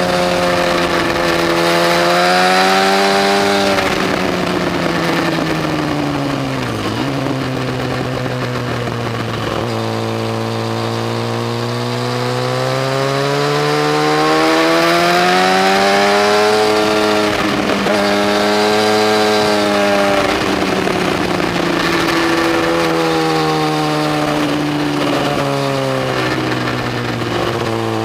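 Yamaha FZ1's inline-four engine under hard riding, its pitch climbing and falling as it pulls through the gears and backs off, with a handful of sudden short drops in revs at gear changes.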